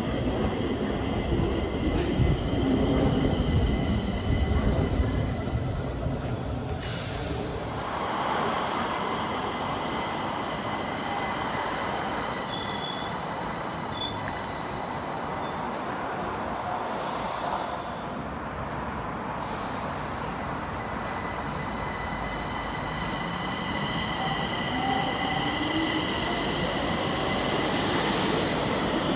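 Stockholm Metro train running on the rails, its wheels squealing in steady high tones over the rumble. Two short bursts of hiss come about a quarter and halfway through, and near the end a motor whine rises in pitch as the train speeds up.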